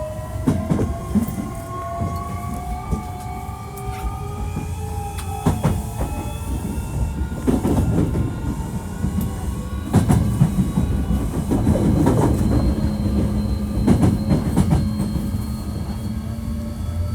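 Hankyu 1300 series train running, heard from inside the car: the whine of its Toyo IGBT inverter-driven traction motors climbs in pitch through the first few seconds as it accelerates, then holds steady. Wheel rumble and repeated clicks run underneath. This unit is known for an unusual running noise.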